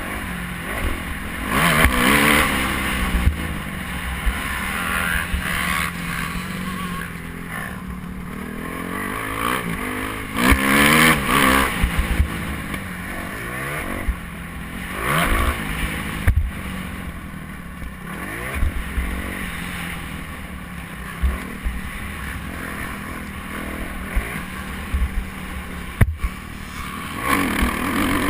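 Motocross motorcycle engines revving up and down in several loud surges, their pitch rising and falling as the throttle opens and closes.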